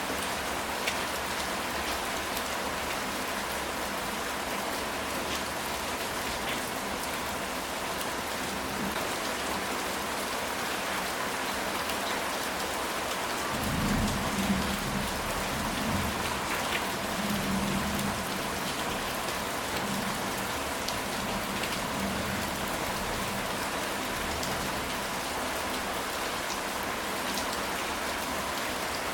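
Steady rain falling on a ceramic tile roof, an even hiss with scattered drop ticks. About halfway through, a low rumble of thunder swells and fades in a few waves.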